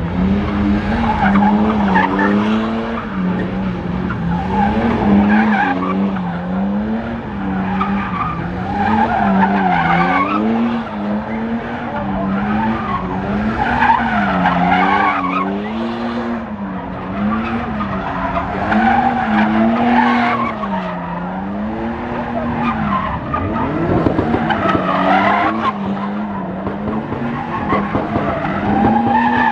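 A car drifting: its engine revs rise and fall in a steady cycle about every one and a half to two seconds as the tyres squeal and skid in repeated surges.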